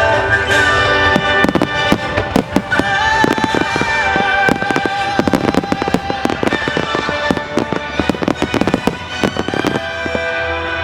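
Fireworks going off in a rapid barrage of shell bursts and crackles, thickest in the second half, over music with a wavering melody line.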